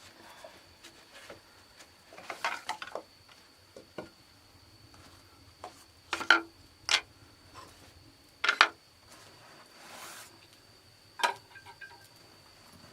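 A steady high insect drone, with several sharp clacks and knocks from handling hard objects, four of them standing out in the second half, and a burst of rustling and tapping earlier.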